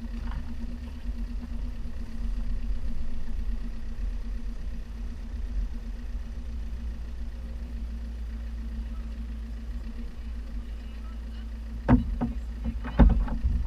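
Lancia Delta's engine running steadily at low revs while the car is driven over soft, churned-up ground, with sharp knocks twice near the end.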